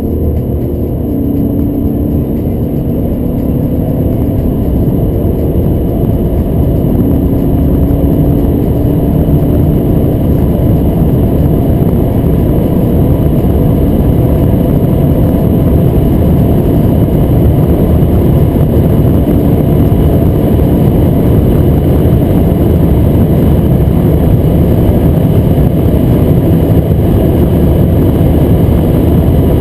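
BMW 540d xDrive's twin-turbo straight-six diesel pulling hard at high autobahn speed. A low engine drone creeps slowly up in pitch during the first ten seconds or so, under heavy, steady road and wind roar that grows a little louder.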